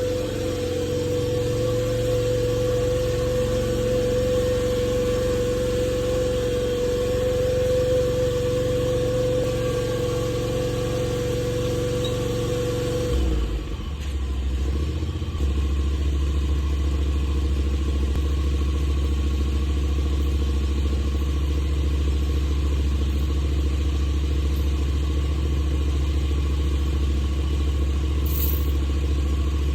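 Demolition derby car's engine running steadily. About halfway through, its note changes: the higher tone drops out and a deeper, steady drone carries on.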